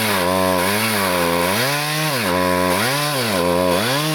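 New two-stroke chainsaw being run in while felling a tree. The engine pitch dips and rises again about once a second as the chain bites into the wood and frees up.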